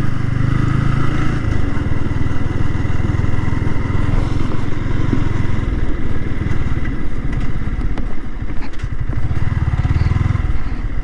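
Yamaha R15 V3's 155 cc single-cylinder engine running as the motorcycle rides along. The engine note eases off about seven seconds in and picks up again near the end.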